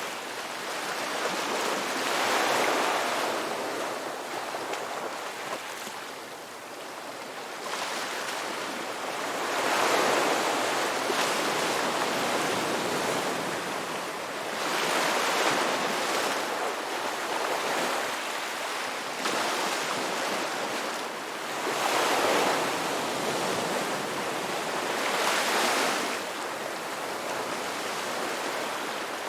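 Ocean waves breaking and washing up the beach, the surf swelling and falling back in repeated surges a few seconds apart.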